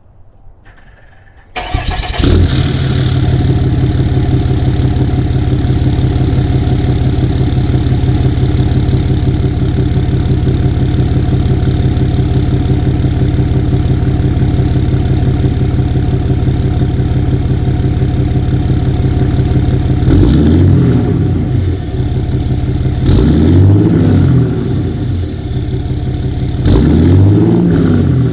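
2013 RAM 2500's 6.7L Cummins inline-six turbo diesel starting up about a second and a half in, heard through a 5-inch stainless turbo-back exhaust with a muffler. It settles into a steady idle, then is revved three times near the end, the pitch rising and falling each time.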